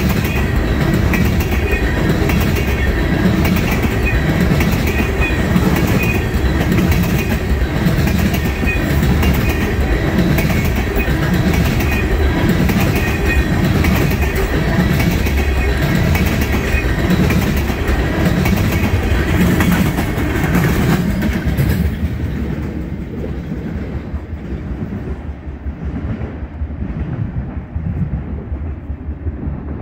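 Freight train tank cars rolling past close by, their steel wheels clacking over the rail joints in a steady rhythm. About 22 seconds in the last cars go by and the sound drops off and fades as the train moves away.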